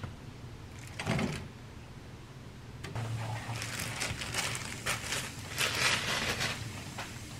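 A soft knock about a second in, then sliced onion, cabbage and bacon being put by hand into an oiled frying pan and starting to sizzle and crackle in the hot oil.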